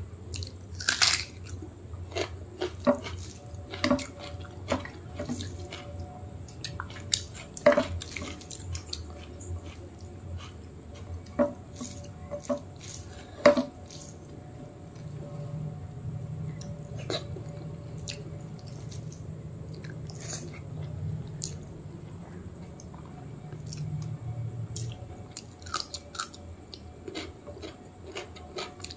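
Close-miked wet chewing and lip smacking while eating rice with mutton curry by hand, with squelches of fingers mixing the rice; a scatter of short smacks and clicks, the loudest about a second, eight seconds and thirteen seconds in. A low hum runs underneath, stronger from about fifteen to twenty-five seconds in.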